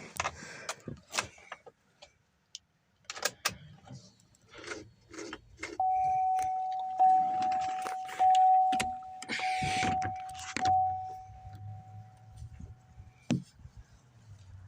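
Keys jangling and clicks and knocks from a 2007 Saturn Outlook's door and cabin, then the car's electronic warning chime sounding a steady repeating tone, about once a second, for several seconds before it stops with a thump.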